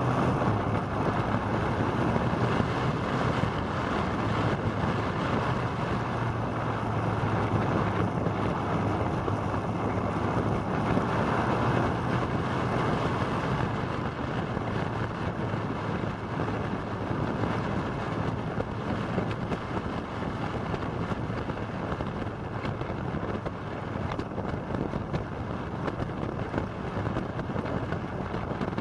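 Motorcycle on the move, recorded from the moving bike: a steady rush of wind over the microphone with the engine running underneath.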